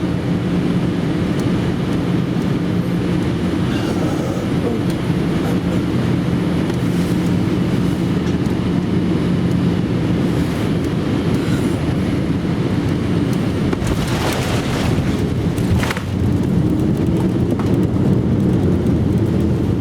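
Cabin noise of a Boeing 787-8 Dreamliner on final approach to landing: a steady loud rumble of engines and airflow with a low hum. There is a brief swell of noise about fourteen to sixteen seconds in, after which the rumble is a little louder.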